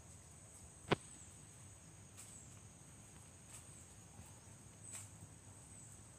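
Insects droning steadily in a high continuous band, with one sharp click about a second in and a few faint ticks after it.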